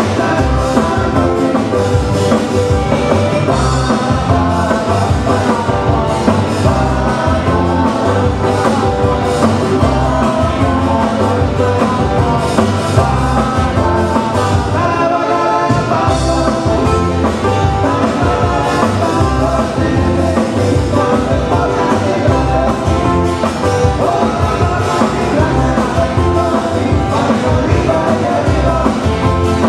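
A live band playing a song, with guitar and singing over a steady bass beat.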